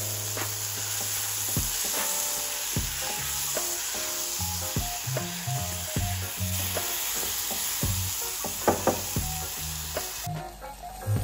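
Mushrooms frying and sizzling in a nonstick saucepan with melting clotted cream, a wooden spatula stirring and clicking against the pan, several knocks close together near the end. The sizzle drops away about ten seconds in; soft background music runs underneath.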